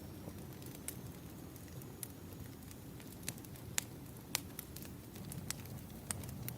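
Wood fire crackling: a steady low rumble of burning logs with scattered sharp pops and snaps, two louder snaps near the middle.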